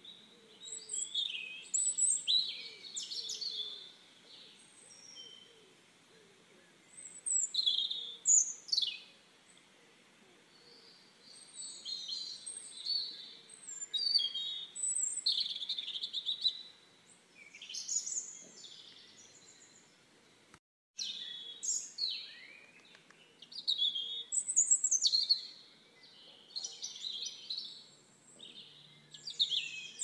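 Songbirds singing: short, varied chirping phrases in bursts every second or two, with a split-second dropout of all sound about two-thirds of the way through.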